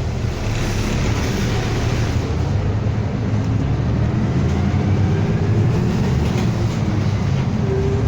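City bus running, heard from inside the cabin: a steady low engine and road rumble with a faint whine that rises slowly in pitch.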